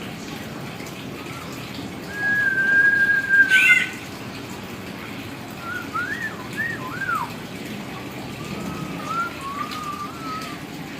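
Hill myna whistling: one long held whistle about two seconds in that ends in a sharp upward note, then a run of short rising-and-falling whistles and a wavering, lower whistled phrase near the end.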